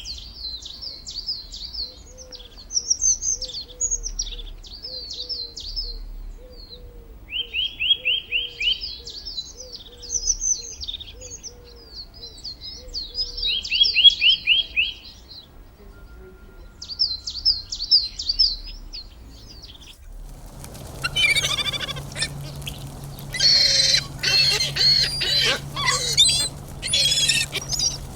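Songbirds singing repeated high chirps and short rapid trills, over a fainter low call repeating about twice a second. About twenty seconds in, this gives way abruptly to loud, dense squawking and chatter from a flock of birds over a steady hum.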